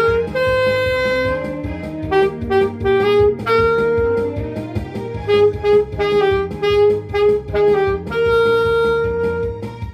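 Saxophone playing a Korean trot melody over an accompaniment with a steady beat. Long held notes alternate with runs of short repeated notes.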